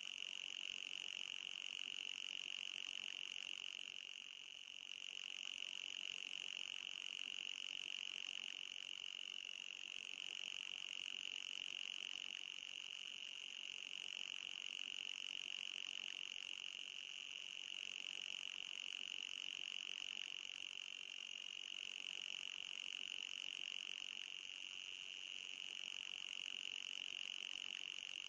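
Anti-mosquito repeller sound: a continuous high-pitched electronic buzz with a fainter, higher-pitched layer above it, wavering briefly a few times.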